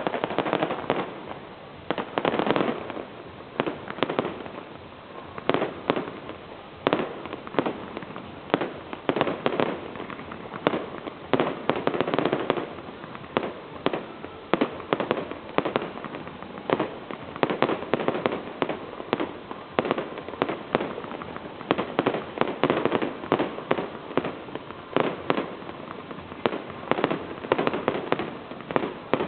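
Fireworks going off: an irregular string of sharp bangs and cracks, several a second, over a continuous rumble of further explosions.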